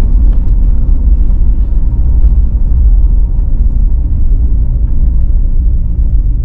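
Car driving over bumpy, snow-covered side streets: a loud, steady low rumble of road noise, with no clear break or single event.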